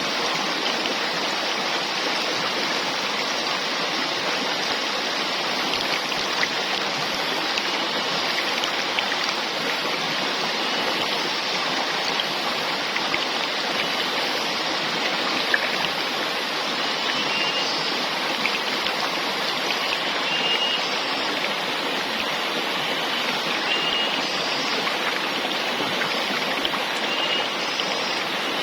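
Steady rush of falling water from a forest waterfall, even and unbroken throughout. A few faint, short, high chirps come through in the second half.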